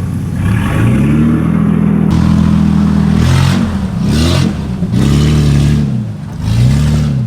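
Nissan GQ Patrol's TB42 4.2-litre straight-six petrol engine, run with no exhaust, revving up and dropping back in repeated throttle bursts as the 4x4 crawls up a rock step off-road.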